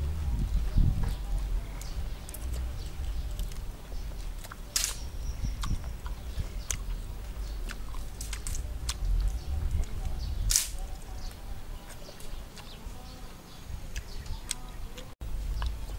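Eating cooked crab close to the microphone: chewing and crunching with many scattered sharp clicks and smacks, and two louder cracks about five and ten and a half seconds in, over a low rumble.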